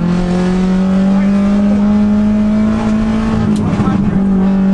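Subaru Impreza's 2.0-litre turbocharged flat-four racing engine pulling hard, its note climbing steadily, then breaking off briefly about three and a half seconds in as it shifts up and picks up again at lower revs. A steady rush of road and wind noise runs underneath.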